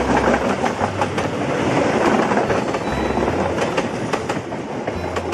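Passenger train coaches passing close by at speed: a steady rumble of wheels on rail, with rapid clicks and clatter as the wheels cross the rail joints.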